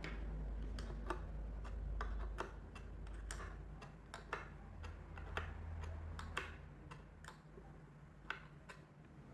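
Irregularly spaced light clicks and taps, about fifteen of them, over a low steady rumble.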